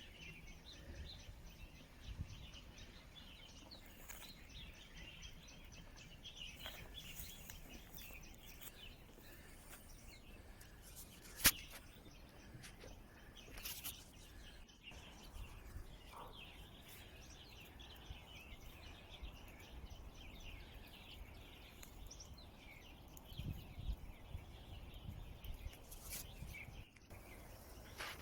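Small birds chirping on and off over a low, steady outdoor rumble. There are a few sharp clicks, one loud click about 11 seconds in.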